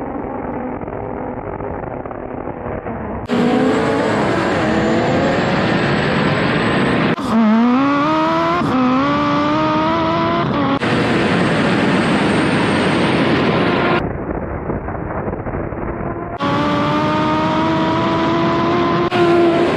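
Car engines accelerating hard on a drag strip, their pitch climbing and dropping back with gear changes, heard across several short clips that cut abruptly from one to the next.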